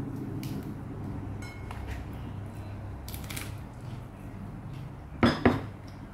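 A person chewing a mouthful of lettuce-wrapped steamed bread, with small mouth clicks. Two sharp knocks a moment apart about five seconds in are the loudest sound.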